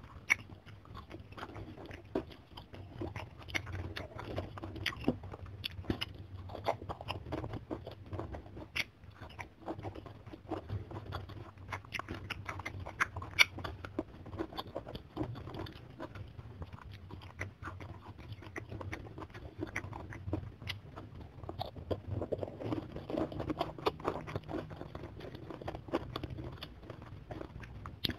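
Close-miked chewing of a mouthful of crunchy food: an irregular run of short crunches and crackles.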